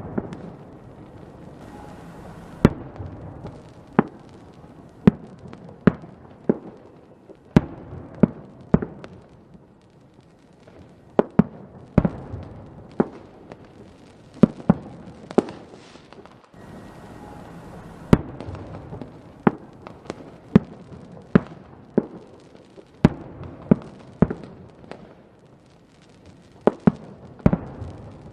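Fireworks going off: sharp bangs at irregular intervals, about one or two a second, over a steady crackling haze, with a brief lull about ten seconds in.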